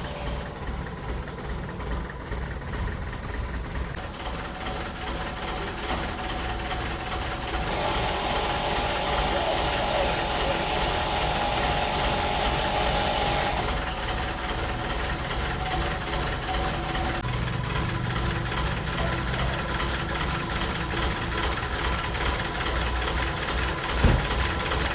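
An engine running steadily, with a louder hissing stretch in the middle and a single knock near the end.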